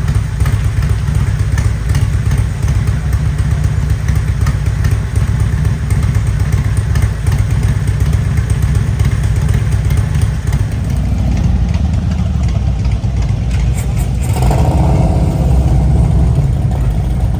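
Motorcycle engine running at idle, a steady deep rumble; near the end a second, higher-pitched engine sound joins in.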